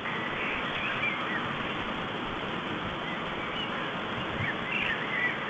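Scattered short bird calls over a steady rushing background noise, heard through a stork-nest webcam's low-fidelity microphone.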